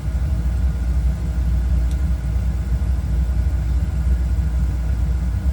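Oil-fired boiler's burner running with a steady low rumble, smooth and even now that the coupling drives the oil pump again.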